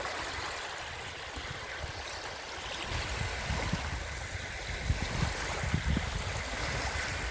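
Wind-driven waves washing on a lake shore, with wind gusting on the microphone as low rumbles that grow stronger about halfway through.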